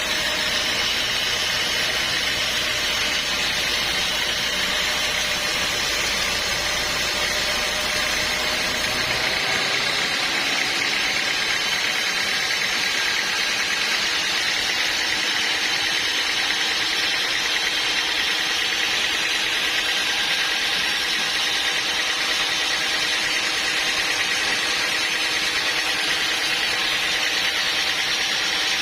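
Sawmill machinery running steadily, a continuous mechanical drone with a high steady whine. A low hum underneath drops away about nine seconds in.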